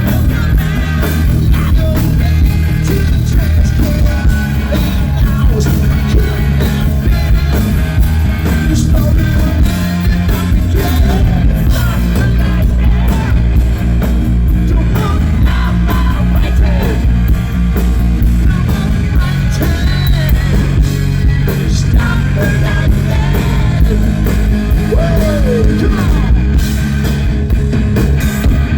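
Hard rock band playing loud and live, with electric guitar and a singer over the full band.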